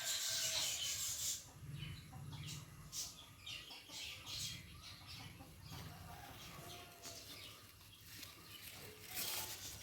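Faint clucking of a chicken, with brief rustling near the start and again near the end.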